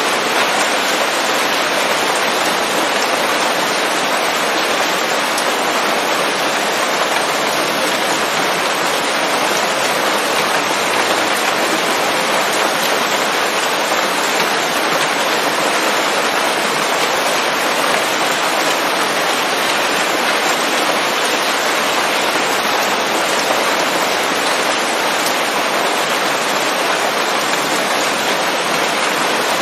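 Steady heavy rain falling on leaves: a constant, even hiss of countless drops.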